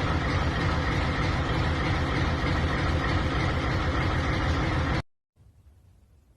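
Large diesel engine running steadily with a dense, rapid low clatter, cut off abruptly about five seconds in, leaving near silence.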